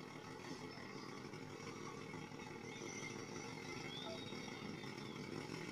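Faint, steady engine running of an SUV as it creeps forward at low speed through a practice course.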